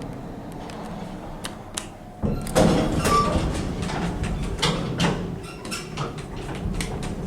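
Lift (elevator) doors sliding, with clicking and clattering over the low hum of the lift machinery, which becomes louder and busier about two seconds in. A short tone sounds about three seconds in.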